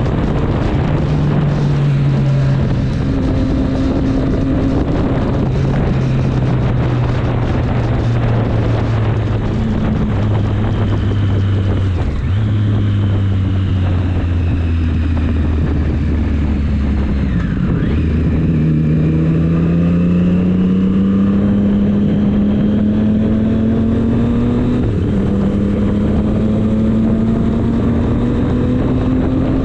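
Triumph Street Triple 765 S inline-three engine and exhaust under way, with wind buffeting the microphone. The engine note steps between gears, falls away as the bike slows through the middle, then climbs under acceleration with an upshift late on.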